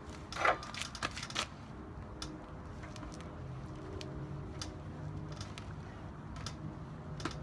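Attempt to pull-start a small minibike engine: a short rasp of the recoil starter cord about half a second in, followed by scattered clicks and knocks.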